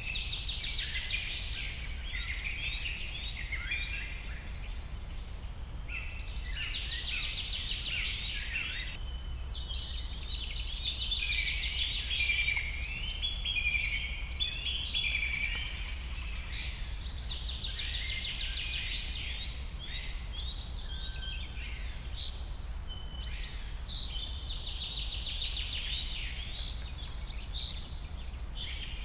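Songbirds singing, with bouts of rapid chirps, trills and short whistled notes every few seconds over a steady low background rumble.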